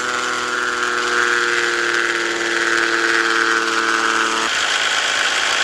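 Scania S 450 truck engine running, a steady mechanical hum over constant noise. A steady whine of several tones stops suddenly about four and a half seconds in.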